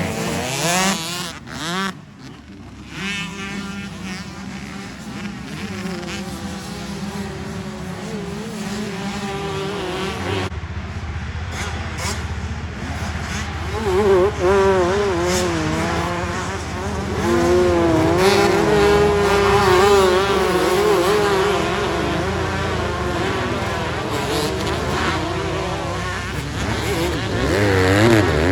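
Motocross bikes racing, their engines revving up and down through the gears as they pass, several at a time.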